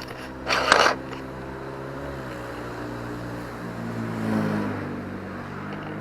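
A vehicle engine running close by in street traffic, its note shifting and swelling around four seconds in. A short, loud burst of hiss comes about half a second in.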